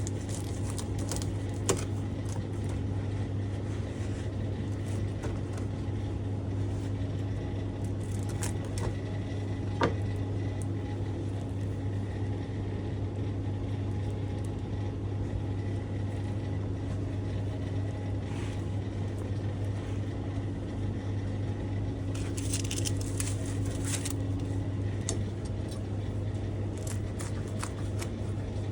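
A steady low mechanical hum, like a kitchen appliance's motor or fan running, with a few light clicks and knocks of handling. A second, higher steady tone in the hum fades out near the end.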